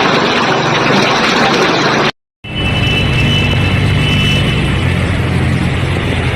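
Road vehicles and their engines on a waterlogged street, a dense noisy din that cuts out abruptly about two seconds in. After the break a heavy vehicle engine runs with a low, steady hum.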